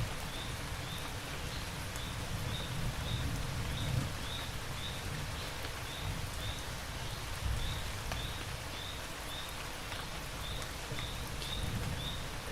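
Steady rain falling, with a faint high chirp from a small animal repeating about twice a second.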